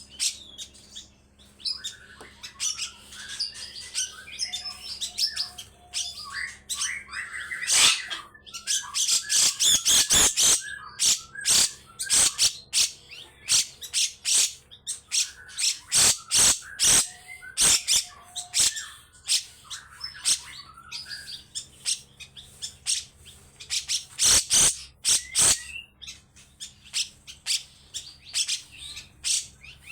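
Grey-cheeked bulbul (cucak jenggot) calling in long runs of harsh, rasping notes delivered in rapid strokes. Short warbled phrases come between the runs, near the start and again about two-thirds of the way in.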